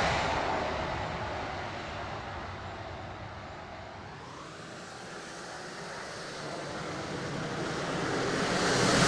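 Radio-controlled F-16 model jet flying circuits: its jet noise fades away after a pass and then builds toward the next low pass near the end, with a steady rush in between.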